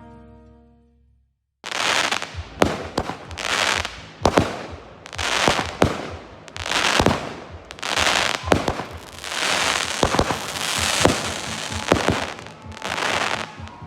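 Fireworks going off one after another, about a second and a half in and then roughly one a second. Each burst starts with a sharp bang and fades out in a crackle.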